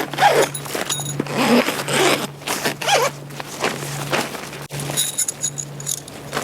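A series of quick scraping, zipper-like strokes of camping gear being handled, with one sharp click a little over two-thirds through.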